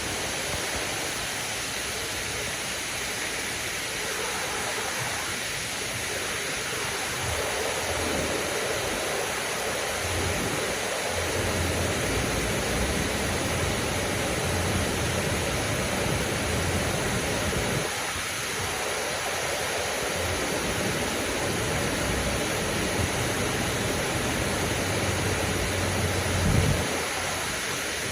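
Waterfall: steady rushing, hissing water, with a low rumble that comes and goes and a brief louder bump near the end.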